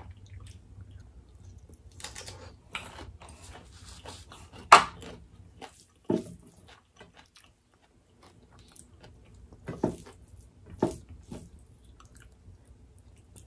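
Close-miked eating: chewing and lip smacking over mouthfuls of rice and duck curry eaten by hand, with scattered small clicks and a few louder smacks.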